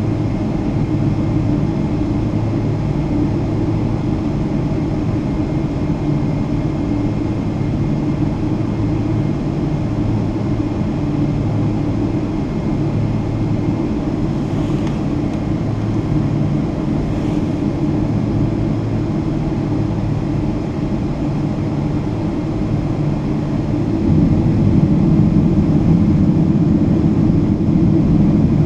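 Boeing 777-200 jet engines running with a steady low drone, growing louder about 24 seconds in.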